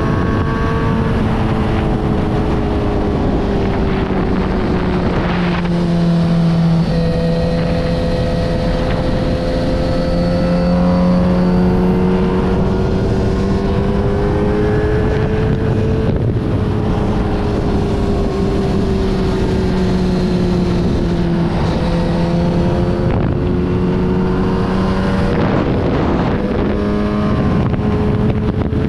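Kawasaki Z900RS inline-four engine running through a full Yoshimura exhaust under way, its note rising and falling several times as the bike is ridden.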